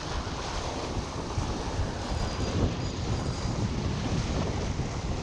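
Wind buffeting the microphone in steady gusts, over choppy river water.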